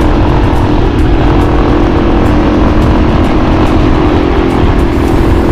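Yamaha XT250 single-cylinder motorcycle engine running at a steady pace while riding, under heavy wind rumble on the camera microphone.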